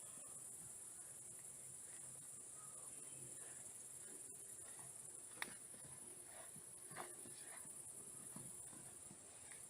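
Crickets chirring steadily in a high, continuous chorus. A single sharp click sounds about five and a half seconds in, and a fainter knock follows around seven seconds.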